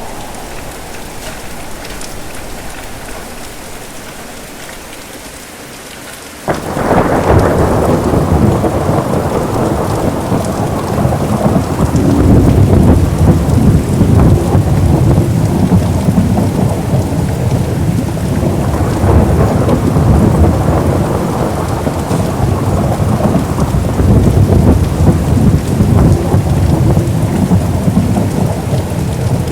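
Steady heavy rain, then about six seconds in a sudden thunderclap that turns into a long, rolling rumble of thunder under the rain.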